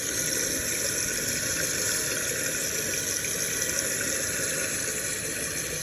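Toilet tank refilling through a newly installed fill valve: a steady rushing hiss of water flowing into the tank.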